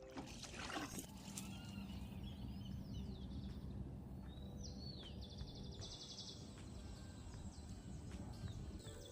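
Outdoor ambience: steady low rumble of wind noise, with a small bird calling in high chirps and two rapid trills, about three and six seconds in.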